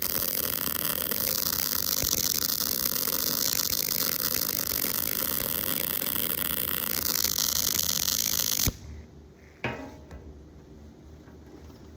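MIG welding arc crackling steadily while a cap pass is run with the gun pulled (drag technique), then cutting off abruptly about three-quarters of the way in. A single click follows about a second later.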